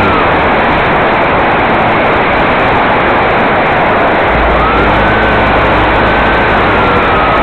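Radio-controlled model floatplane's motor, a high whine that fades away near the start and comes back about four and a half seconds in, its pitch rising and dipping as the plane passes. A loud, steady rushing noise covers everything.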